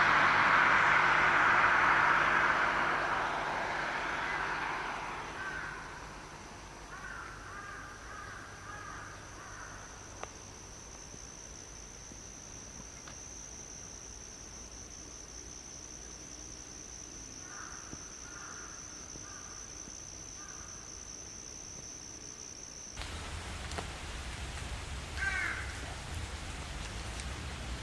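Forest ambience: a crow cawing loudly at the start, then short bursts of bird chatter and a steady high insect buzz. About 23 seconds in the sound cuts abruptly to a different recording with a low rumble and a brief rising bird chirp.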